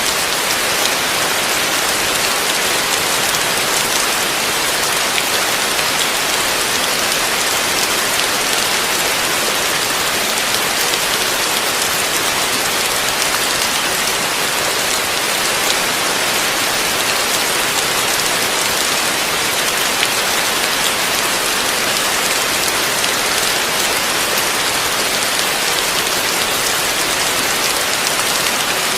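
Heavy rain falling steadily, a dense even hiss of drops on a surface, with no let-up or change.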